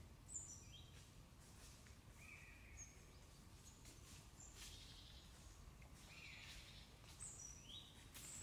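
Faint birdsong: short phrases of high notes that fall in pitch, repeated every second or two over a low background hiss.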